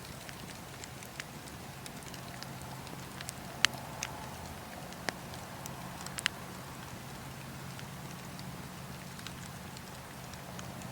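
Wood fire burning in a fireplace: a steady low rush of flame with scattered sharp crackles and pops, the loudest a few seconds in and again around the middle.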